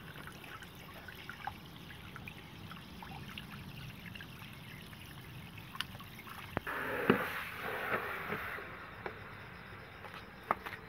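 Water trickling and dripping, with scattered small drip ticks. About six and a half seconds in, a louder splashing rush starts with a sharp click and runs for about two seconds before falling back to the faint trickle.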